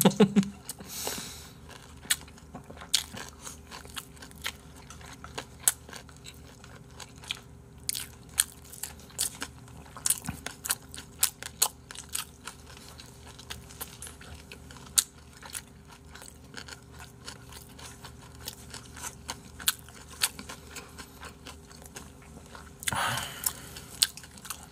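Close-miked eating: crunchy chewing and bites of crisp vegetables and boiled pork, with many short sharp clicks of chopsticks against plastic food containers. A brief rush of noise comes near the end.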